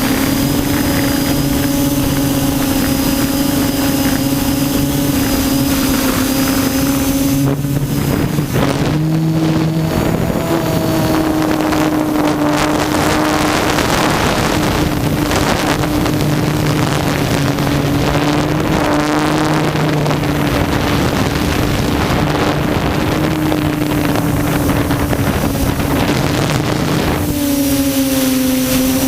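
Quadcopter's electric motors and propellers running in flight, a steady hum whose pitch shifts about eight seconds in and again near the end, with wind rushing over the microphone.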